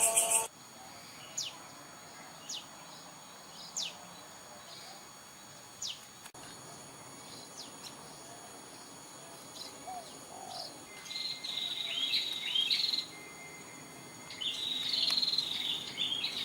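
Prinia (prenjak) calling: at first single short, sharp falling notes a second or two apart, then from about eleven seconds in, louder bursts of rapid chattering notes. A faint steady high insect drone runs underneath.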